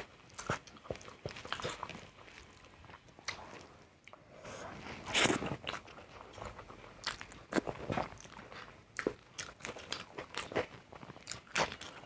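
A person biting and chewing crunchy food close to the microphone: a run of crisp, crackling crunches, the loudest about five seconds in.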